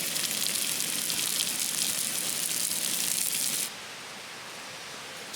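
Food sizzling and crackling on a hot pan, a loud hiss that cuts off about three and a half seconds in, leaving the steady rush of a nearby stream.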